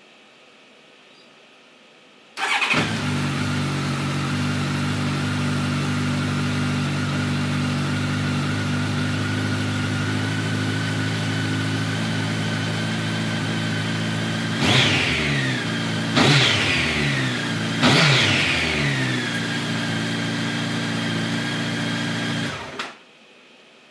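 Honda CBR1100XX's inline-four engine on its stock exhaust starting about two seconds in, idling steadily, revved briefly three times in quick succession, then switched off near the end.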